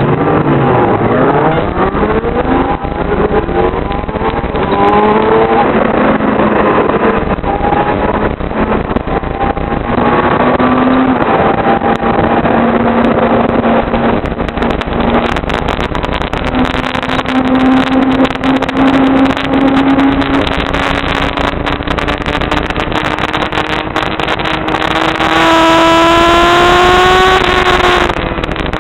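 Yamaha R6 600cc inline-four sportbike engine at high revs on track. The pitch rises and falls with throttle and gear changes, then climbs steadily over the last dozen seconds.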